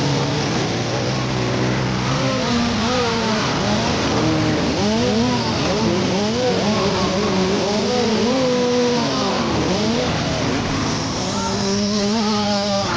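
Several motocross dirt bikes running on the track, their engine notes rising and falling repeatedly as they rev and shift.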